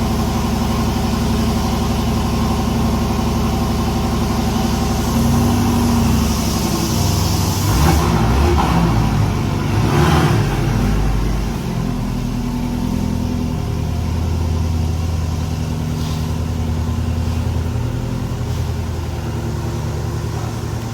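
Porsche 718 engine running steadily at idle, revved up a few times between about five and eleven seconds in, then settling back to a steady idle.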